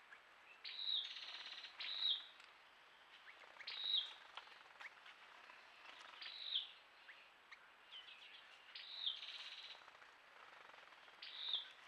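A wild bird calling over and over: six short, high notes that rise and then drop, about every two to two and a half seconds, with a rapid buzzy rattle after the first and the fifth.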